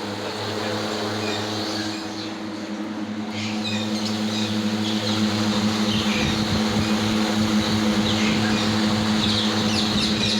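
Small 12-volt electric fans running off a mains power supply, giving a steady electrical hum with a rush of air that gets louder about halfway through. Short bird chirps sound now and then over it.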